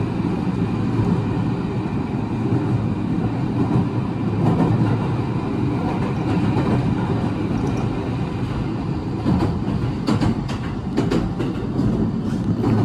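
Train running: a steady low rumble, with a few sharp clicks near the end.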